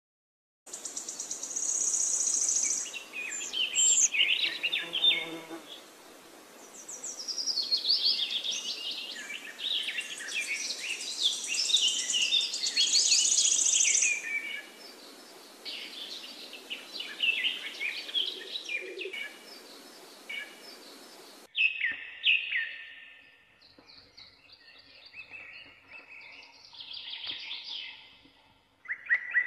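Birds chirping and singing, many short calls overlapping. About three-quarters of the way through it cuts suddenly to a quieter stretch of scattered chirps.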